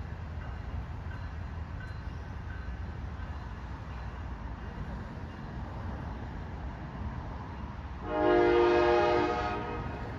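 Train running with a steady low rumble; about eight seconds in, the locomotive's air horn sounds one blast of about a second and a half, a chord of several tones.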